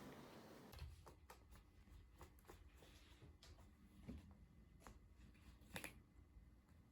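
Near silence with a handful of faint, scattered light taps and rustles, the clearest about a second in, around four seconds and near six seconds.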